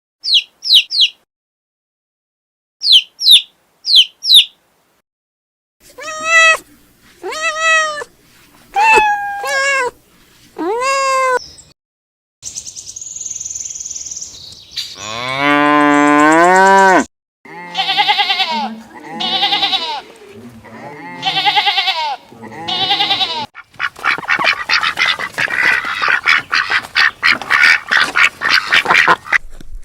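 A string of different farm animals calling one after another: a few short high peeps at the start, a run of pitched calls, a long moo rising in pitch around the middle, more calls, and a dense rapid chatter near the end.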